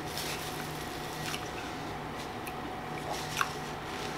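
Quiet, wet mouth sounds of chewing a taco, with a couple of small clicks, over a steady low hum.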